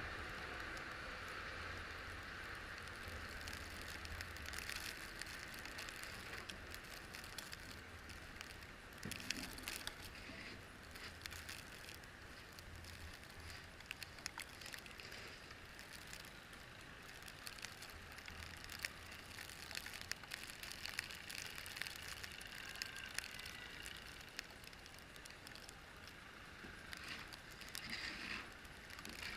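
Faint, steady road noise of a vehicle driving on snow-covered roads, with a low hum and many scattered small crackles and clicks.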